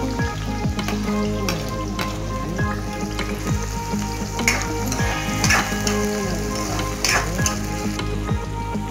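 Sliced onion and diced green capsicum sizzling in hot oil in a kadhai while a steel spoon stirs them, with a few louder scrapes of the spoon against the pan in the middle.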